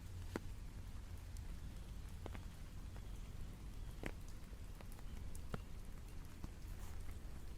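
Rain, with scattered single drops ticking sharply on a hard surface, irregularly, a second or two apart, over a steady low rumble and faint hiss.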